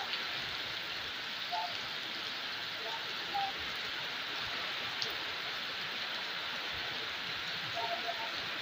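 Heavy rain falling steadily on roofs and a wet paved street, an even hiss.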